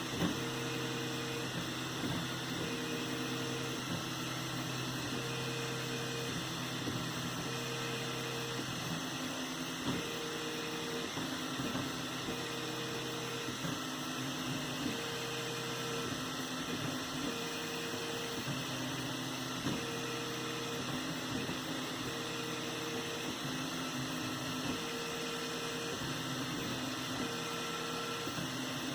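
3D printer at work, its stepper motors whining in shifting tones: a higher tone switches on and off about every second and a half, and a lower tone drops out about nine seconds in. A steady hiss sits underneath.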